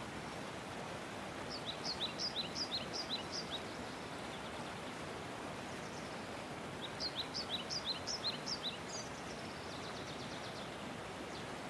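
Steady outdoor background hiss with a songbird singing two phrases, each a quick run of short, high, downward-sliding notes lasting about two seconds, the first about two seconds in and the second about seven seconds in.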